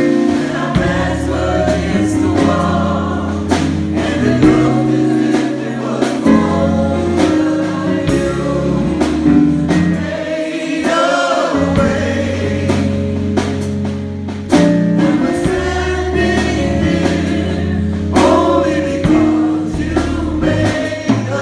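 Gospel choir singing a praise song over instrumental backing, with a steady beat.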